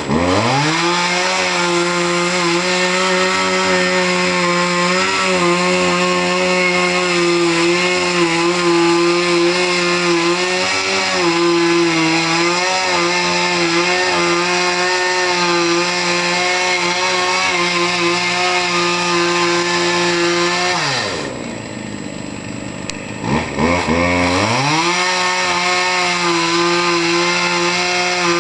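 Two-stroke chainsaw running at high revs, its pitch wavering slightly under load as it cuts wood. About 21 seconds in it drops back to idle for a couple of seconds, then revs back up.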